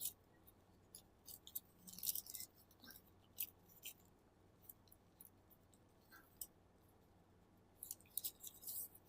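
Sheet of origami paper being folded and creased by hand: faint, scattered crinkles and rustles, busiest about two seconds in and again near the end.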